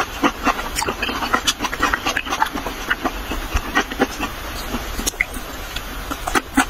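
Close-miked mouth sounds of chewing raw sliced fish: a continuous run of many irregular small clicks and wet smacks.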